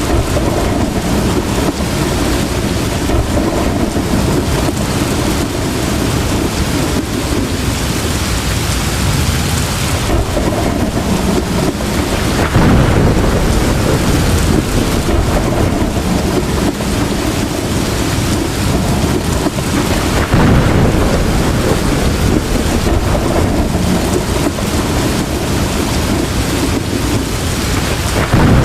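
Heavy rain pouring steadily, with thunder rumbling through it; louder low rumbles swell about twelve seconds in, again around twenty seconds, and near the end.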